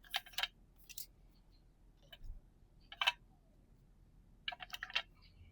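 Paper trading cards being handled and flipped through by hand: short crisp clicks and snaps, a few scattered ones and a quick cluster near the end.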